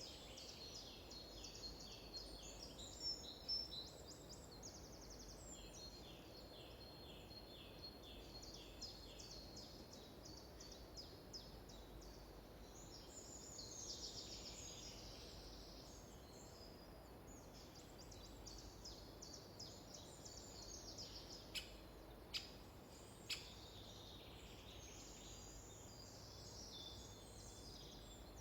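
Faint chorus of songbirds: strings of short repeated chirps and high thin trills overlapping throughout, with a few sharp faint clicks near the end.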